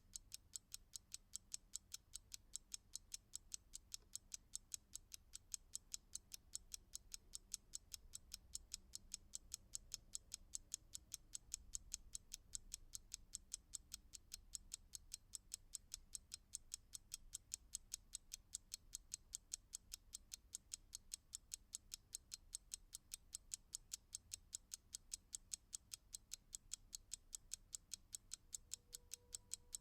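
Clock ticking in a steady, even rhythm of faint, sharp ticks, about three a second.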